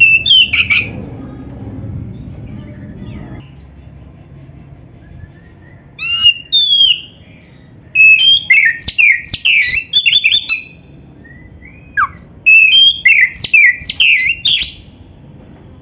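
Oriental magpie-robin singing in four loud bursts of rapid, varied whistles and chirps, separated by pauses of a second or more.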